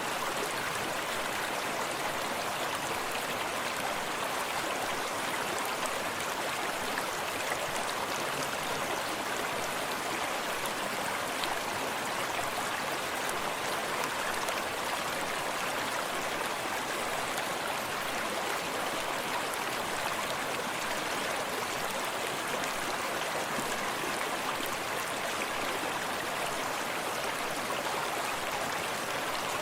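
Forest stream running steadily over rocks, a constant wash of flowing water with small splashes and trickles.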